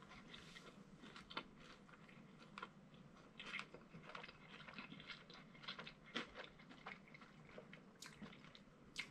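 A person chewing a mouthful of chicken sandwich: faint, wet mouth smacks and small clicks at irregular moments.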